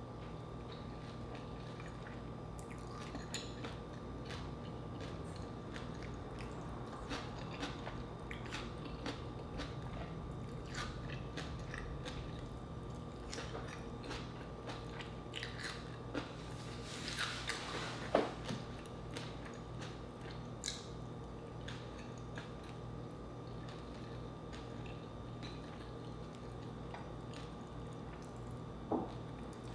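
Close-miked chewing and biting of crispy pata (deep-fried pork knuckle) and fried chicken, with many short crunchy, wet mouth clicks and a denser crunching burst about two thirds of the way in, over a faint steady hum.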